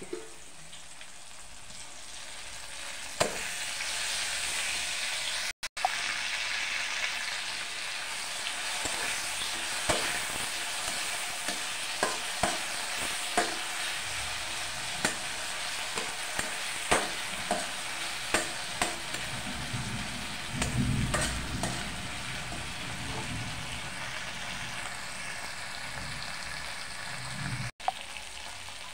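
Onions and ground masala paste sizzling in hot oil in a steel kadai. The sizzle jumps louder about three seconds in as the paste goes into the oil, and a steel spatula scrapes and clinks against the pan as the mixture is stirred.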